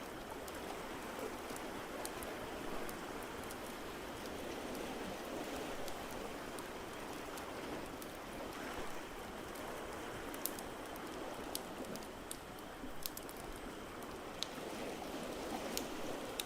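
Ocean waves washing in a steady hiss that swells and eases slowly, over a crackling fire's sharp pops and snaps, which come more often in the second half.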